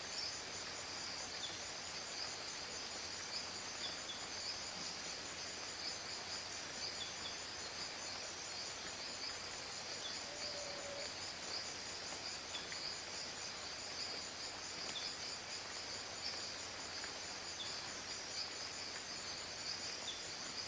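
Rainforest ambience: insects trilling in a steady high-pitched chorus, with faint short chirps every second or two and a brief lower call about halfway through.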